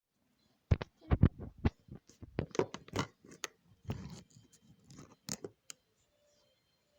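A quick, irregular run of sharp clicks and short scrapes of handling noise that stops a little before the end.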